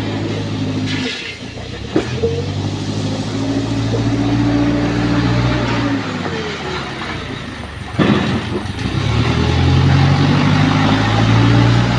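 JCB backhoe loader's diesel engine revving up and down as it works the hydraulics, rising in pitch twice. A sharp knock marks the start of each rise.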